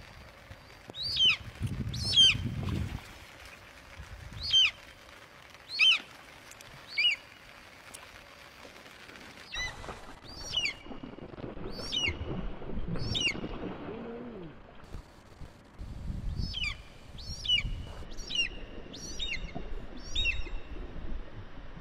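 A bird calling again and again, each note a quick high whistle sliding down in pitch, in runs of two to four notes with short gaps between. Beneath the calls, water splashes as a hooked fish thrashes at the surface.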